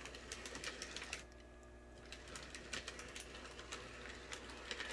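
Lionel LionChief model train creeping along its track at its slowest speed step, giving a faint, irregular clicking and ticking from its wheels and gearing.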